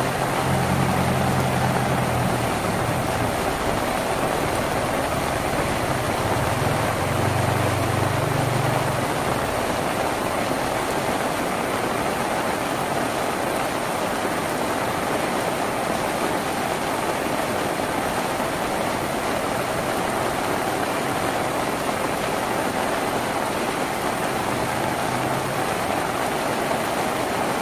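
Steady rain drumming on a tin roof. A low hum, like an engine running, sits under it for roughly the first nine seconds and then fades out.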